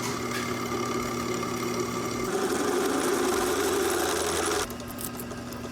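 Electric power saw running and cutting into a small block of steel, a steady motor hum under the cutting noise, which grows louder about two seconds in and drops away about a second before the end.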